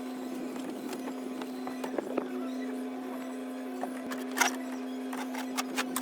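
A steady hum with a few sharp clicks and knocks, the loudest about four and a half seconds in.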